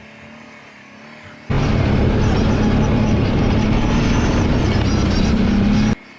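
Kawasaki Brute Force 750 ATV's V-twin engine running on the trail, with wind and ride noise over it. The loud engine and trail noise cuts in suddenly about a second and a half in and cuts out just as suddenly near the end, leaving a much quieter engine hum.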